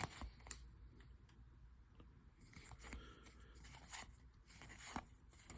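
Near silence, with a few faint soft clicks and rustles of trading cards being handled.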